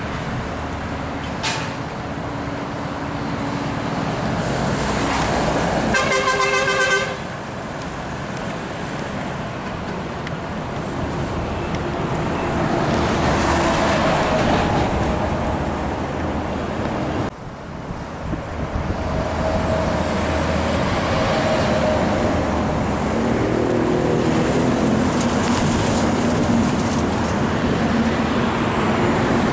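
Heavy road traffic, trucks and cars, passing steadily, swelling and fading as each vehicle goes by. About six seconds in, a vehicle horn sounds once for about a second.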